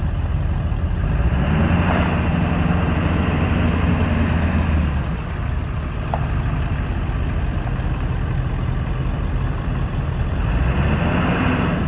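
A 1999 Ford F-350 pickup's engine idles and is revved up about a second in. It holds the higher speed for a few seconds, drops back to idle, then is revved again near the end.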